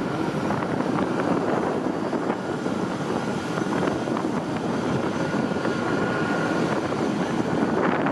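Steady engine noise with a faint high whine held through, with no breaks or sudden events.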